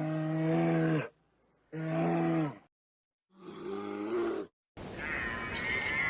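Animal calls: three drawn-out, low-pitched calls of about a second each with short pauses between them, the last one higher and rising. After a brief silence, a different, higher-pitched animal call begins over background noise.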